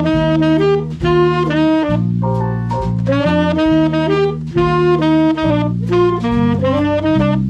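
Swing band playing, saxophones and brass sounding together in short phrases over a low bass line.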